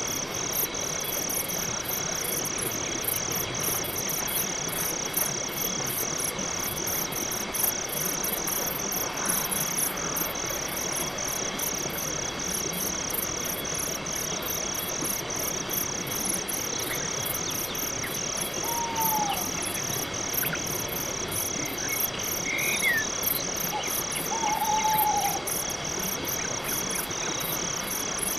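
Night forest ambience: a cricket chirping steadily, about two high pulses a second, over a constant insect drone. In the second half a few short falling calls from another animal come through.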